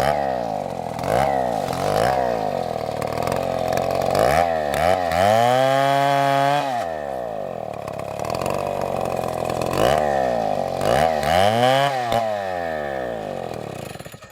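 Two-stroke chainsaw engine revving up and dropping back again and again, held at high revs for about two seconds midway. The sound cuts off abruptly at the end.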